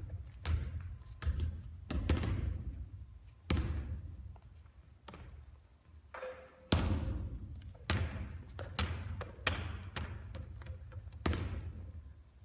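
A basketball bouncing and striking hard surfaces during three-point shooting: a series of irregularly spaced thuds, each followed by a ringing tail.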